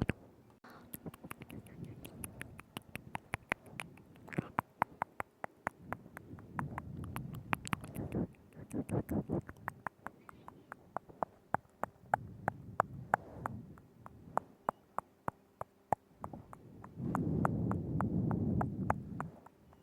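Close-miked ASMR mouth sounds: wet tongue clicks and lip smacks in quick, irregular runs of several a second, with soft low breathy swells between them, the longest near the end.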